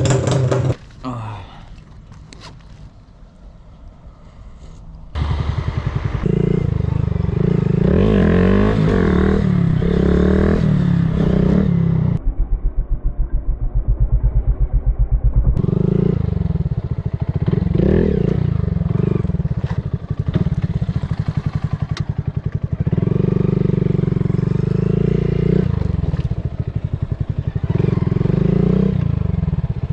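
Motorcycle engine running and accelerating, its pitch rising and falling again and again as the rider opens and closes the throttle and shifts gears. For the first few seconds it is much quieter before the engine sound comes in loud.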